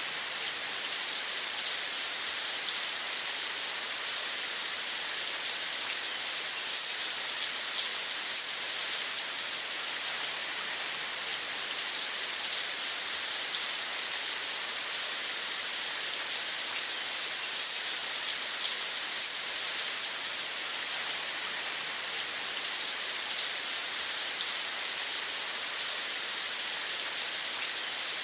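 Steady rain falling: an even, unbroken hiss of many small drops pattering on a surface.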